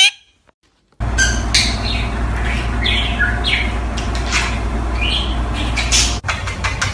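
Pet parrots chirping and squawking, many short overlapping calls over a steady low hum.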